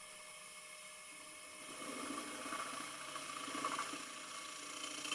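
Steady hiss of a vacuum chuck's suction holding a wooden bowl on the lathe, with a few soft handling noises from about two seconds in.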